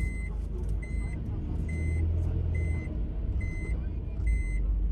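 Vehicle reversing warning beeper sounding six short, evenly spaced beeps, a little more than one a second, over the low, steady running of an engine.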